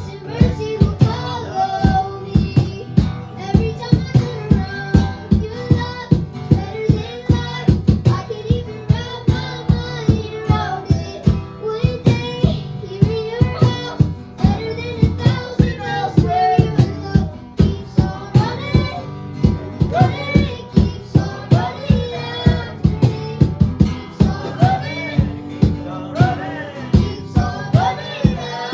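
Worship band playing a song: a steady drum beat under instruments, with a high voice singing the melody.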